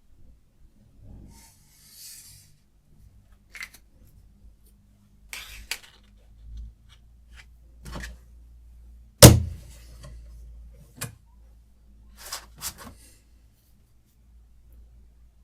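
Hard objects being handled on a knife-sharpening setup: scattered light clicks and brief scrapes, with one much louder sharp knock about nine seconds in. A faint low hum runs underneath.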